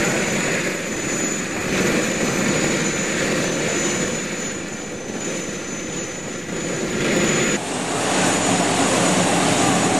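Airbus A380 jet engines running, a steady dense rush of jet noise, which shifts abruptly about seven and a half seconds in.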